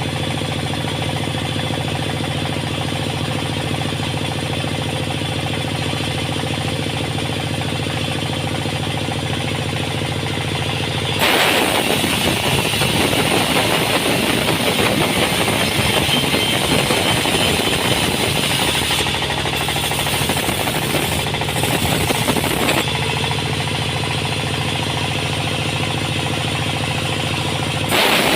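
Sawmill engine running steadily. About eleven seconds in, a louder, rougher sound of the saw working through wood takes over for about twelve seconds, then the steady running returns. The louder sound starts again right at the end.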